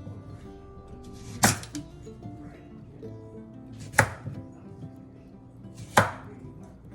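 Knife chopping on a cutting board: three single, separate chops about two seconds apart.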